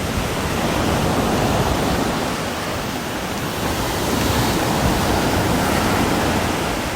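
Steady rain, a dense even hiss with no breaks.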